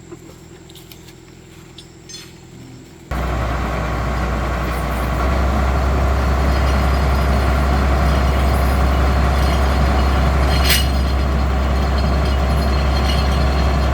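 A heavy vehicle's engine running steadily, with a strong low hum. It starts abruptly about three seconds in, after faint background noise, and gets a little louder about two seconds later.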